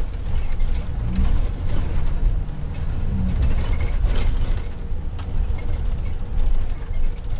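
Road noise inside a moving vehicle: a steady low rumble with loose clicks and rattles throughout.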